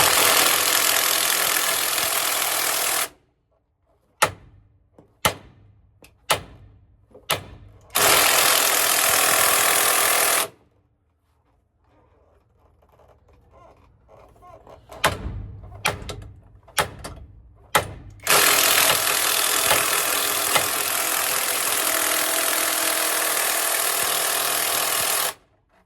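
A pneumatic shop tool running in three long bursts, the last about seven seconds long, with single sharp metal knocks from hammer blows between the bursts, as a stuck driveshaft yoke is driven out.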